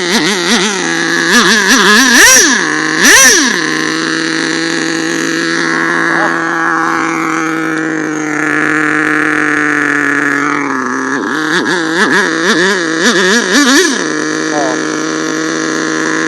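HPI Savage's 4.1cc nitro engine running, revving up and down unevenly in wavering bursts near the start and again about eleven seconds in, and holding a steady pitch in between. A part on the truck has come loose and is slipping.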